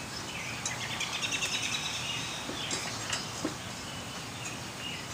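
A songbird singing a fast trill of repeated high notes for about two and a half seconds. A few faint clicks and taps follow as the mower blade is handled on its bolt.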